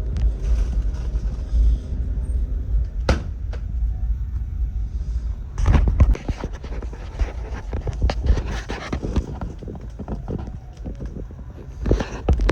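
Low, steady road rumble of a car driving, heard from inside the cabin, with a few sharp clicks and knocks.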